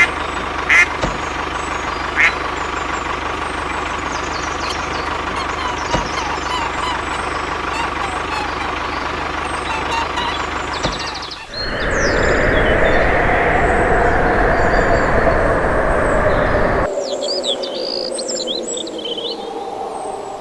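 Steady motor hum with birds chirping. About halfway through it gives way abruptly to a louder rushing noise for about five seconds, and then birds chirp over a quieter background.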